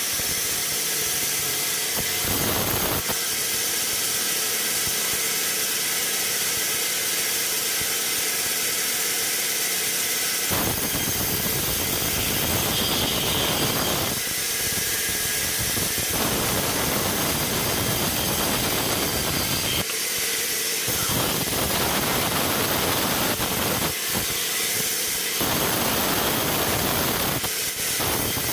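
Sawmill saw running with a loud, steady high hiss. In several stretches of a few seconds the noise fills out into a fuller, rougher sound, as when the blade is cutting through the log.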